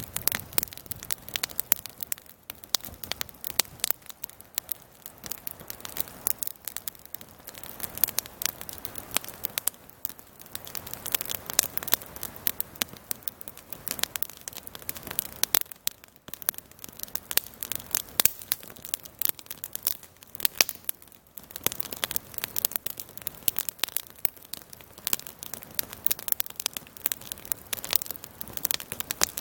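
Campfire of burning wood crackling: dense, irregular snaps and pops over a soft hiss.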